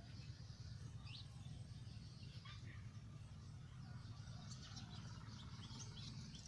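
Faint, scattered chirps of small birds, quickening into a run of short chirps in the second half, over a steady low rumble.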